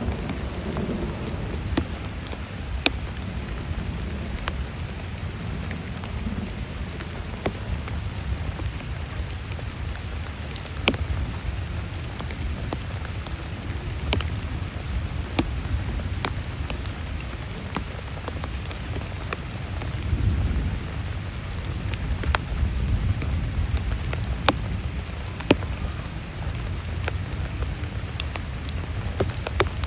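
Heavy rain falling steadily, with scattered sharp drop hits standing out from the patter and a low rumble underneath that swells about two-thirds of the way through, like thunder.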